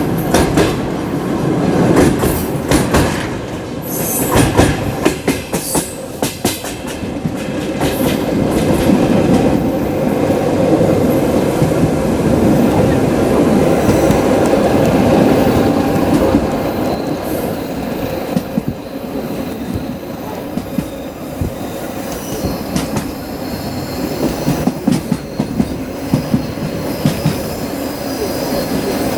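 Passenger coaches of a suburban train rolling over rail joints with a clickety-clack, then high-pitched wheel and brake squeal coming in during the last third as the train slows to stop at the halt.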